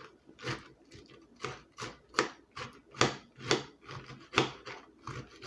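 Knife chopping lettuce on a cutting board, a steady run of crisp chops about two to three a second.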